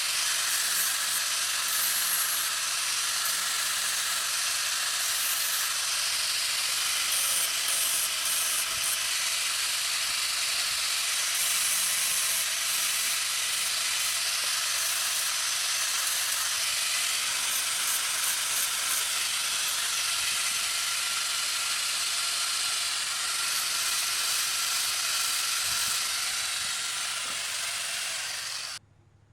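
A loud, steady hiss that cuts off abruptly near the end.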